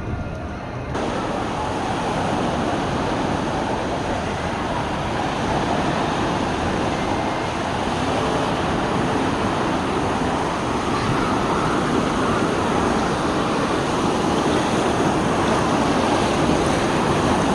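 Indoor wave pool's waves rushing and breaking: a steady wash of water noise that comes in about a second in and builds slightly.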